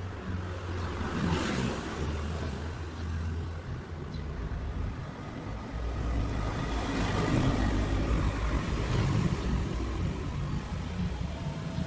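Bajaj Pulsar 150's single-cylinder four-stroke engine running, its revs rising and falling a few times.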